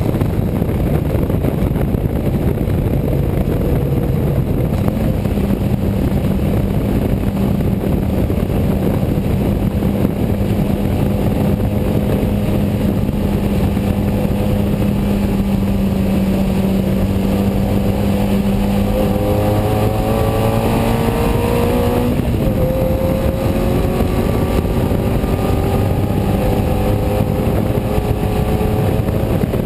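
Unipower GT race car's BMC A-series four-cylinder engine heard from inside the cockpit. It holds steady revs at first, then climbs in pitch under acceleration, with a sudden drop about 22 seconds in like an upshift, and keeps climbing again afterwards.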